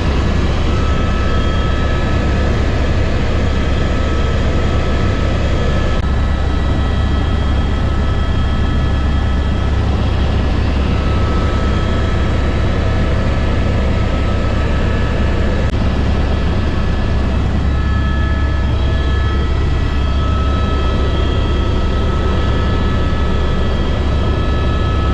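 Helicopter running steadily in flight: a constant low rotor and engine drone with thin steady whining tones above it.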